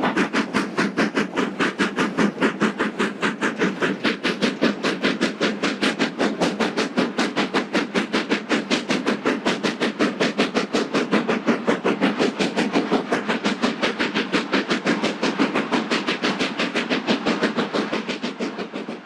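Hawthorn Leslie 0-4-0 saddle tank steam locomotive blasting up a steep 1 in 19 bank with a short rake of mineral wagons. It gives rapid, even exhaust beats, about five a second, working hard under load, then fades away near the end.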